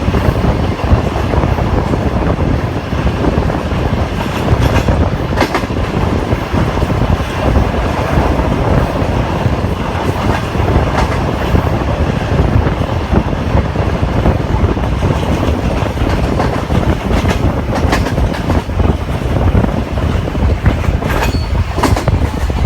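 Train running on the track: a loud, steady rumble with scattered sharp clicks of the wheels passing over rail joints.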